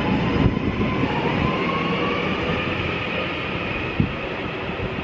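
Class 331 electric train pulling out of the station, its rumble fading slowly under a faint electric whine that rises gently in pitch.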